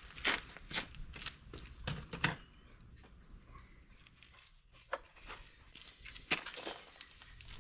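Scattered light clicks and knocks of hand tools and metal parts being handled during motorcycle maintenance, about seven or eight separate taps, with insects chirping faintly and steadily behind them.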